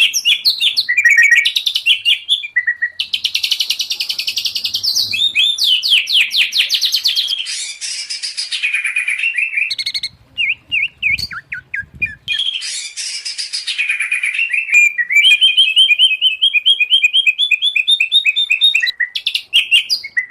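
Captive songbirds, a mix of white-rumped shama, oriental magpie-robin and greater green leafbird, singing loud, varied song: fast repeated notes, rapid trills, whistles and chattering phrases, with a short lull a little past the middle.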